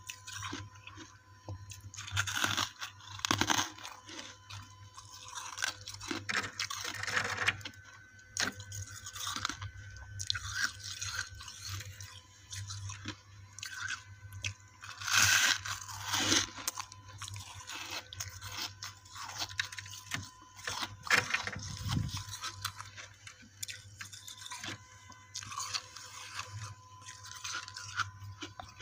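Frost-covered ice chunks being bitten and chewed close to the microphone: irregular squeaky crunches, with a few louder bites about halfway through and again a little later.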